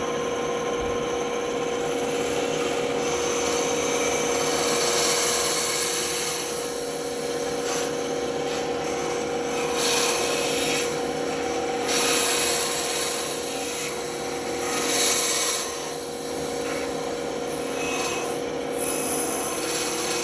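A wooden cutout being sanded: irregular scratchy rasping surges over a steady motor hum.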